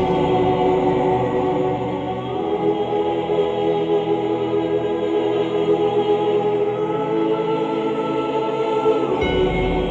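Background music: a choir singing slow, long-held chords, which change about two seconds in and again near the end.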